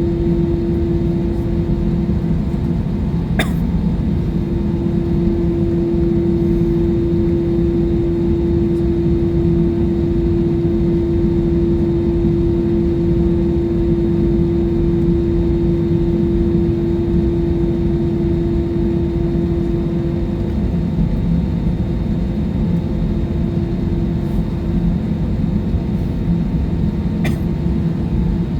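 Steady roar of jet engines and airflow inside an airliner cabin, with a steady hum that fades about two-thirds of the way through. Two brief clicks sound, one early and one near the end.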